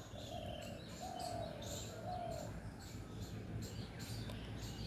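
Faint bird calls: three short, even notes in the first two and a half seconds, over light, high chirps.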